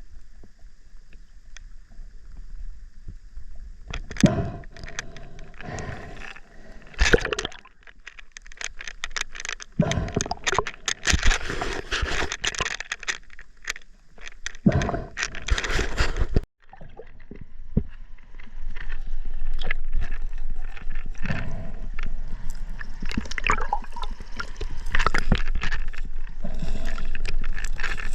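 River water sloshing and gurgling close to the camera, with irregular scraping, rubbing and knocks, and a brief cut-out about halfway through.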